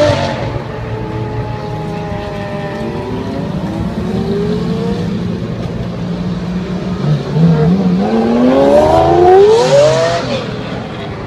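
A performance car's engine, its pitch dropping off after a rev, running steady, then climbing hard as it accelerates and passes, loudest about nine to ten seconds in.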